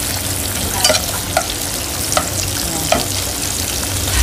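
Sliced onions frying in hot oil: a steady sizzle with about five sharp clicks spread through it.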